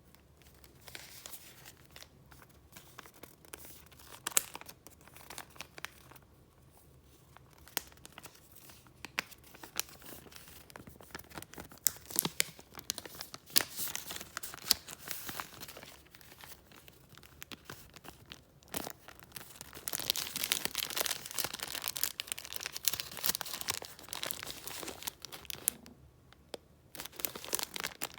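Paper being handled and flipped through: irregular rustling and crinkling with sharp crisp snaps. A longer, louder stretch of rustling comes about two-thirds of the way in.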